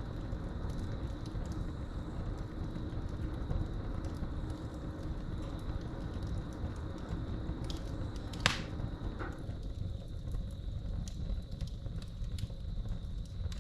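Wood fire crackling in a fireplace, with scattered small snaps over a low rumble and one sharp, loud pop about eight and a half seconds in. Crickets trill steadily behind it.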